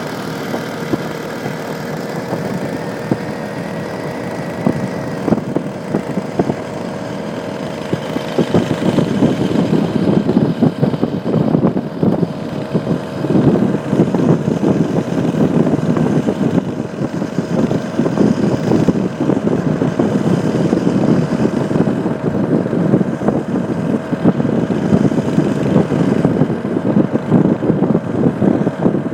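Small 80cc engine of a chopper-style motorbike running steadily for the first few seconds, then louder and rougher from about eight seconds in as it is pushed harder.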